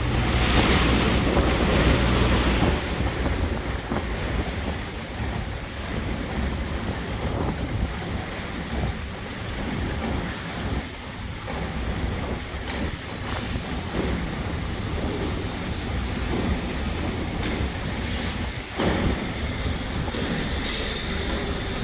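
Boat moving on the water: a steady low rumble with water washing along the hull and wind buffeting the microphone. It is louder for the first few seconds, and there is a single knock near the end.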